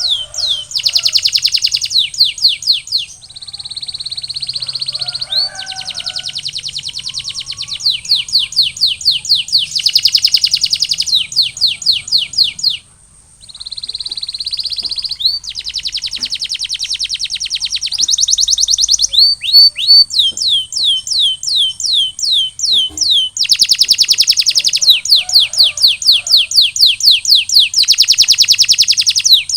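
Domestic canary singing a long song of rapid trills and rolls: phrases of fast repeated notes that change speed every few seconds, with a short break about 13 seconds in.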